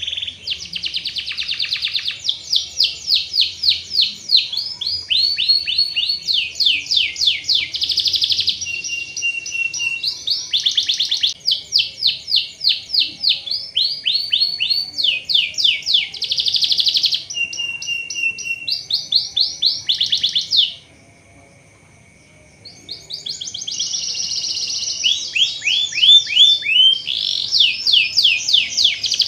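Domestic canary singing: rapid rolling trills of quick rising and falling notes, phrase after phrase, broken by a pause of about two seconds roughly two-thirds of the way through.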